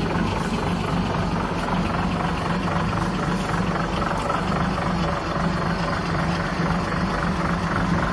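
A 1936 Chevrolet's engine running steadily.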